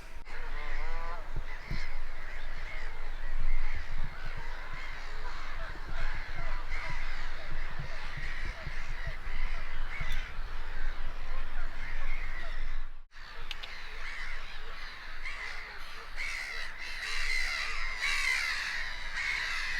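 A large flock of birds calling at once in a dense, continuous chorus, with a brief break about two-thirds of the way through.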